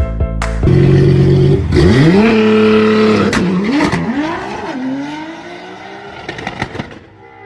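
A motor vehicle's engine revving: its pitch climbs steeply, holds, dips and climbs twice more, then falls away and fades.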